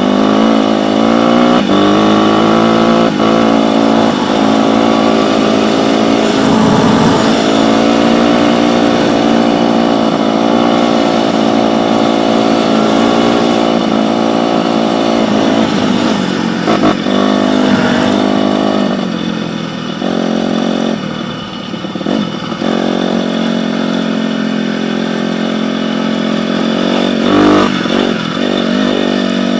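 Dirt bike engine running under load, its pitch rising and falling with the throttle. It eases off for a few seconds around two-thirds of the way through, then picks up again.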